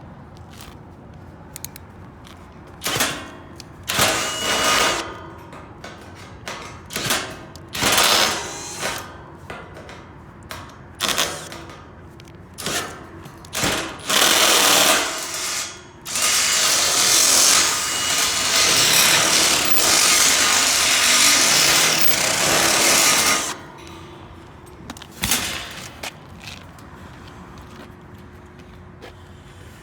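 Power drill run in a string of short bursts of about a second each, then held on for one continuous run of about seven seconds, and one last short burst.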